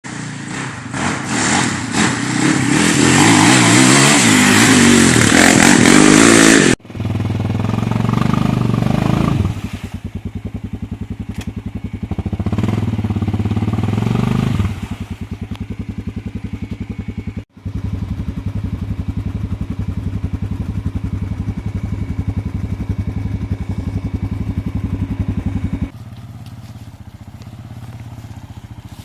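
An engine running in several spliced clips. It is revved hard at first, then runs at a steady idle with even firing pulses, with the level jumping at each cut.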